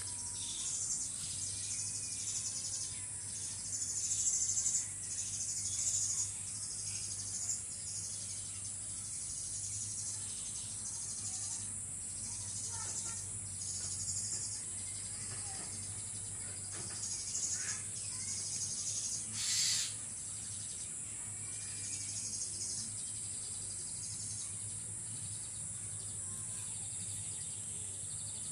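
Insects chirring steadily at a high pitch, with a low hum underneath, scattered faint chirps and ticks, and one brief louder noise about three quarters of the way through.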